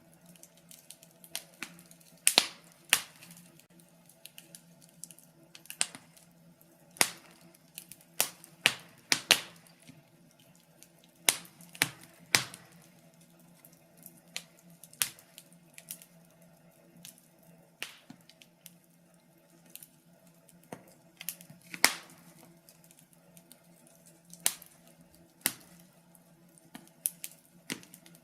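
Wood fire crackling: irregular sharp pops and snaps, some loud and some faint, coming in small clusters, over a faint steady low hum.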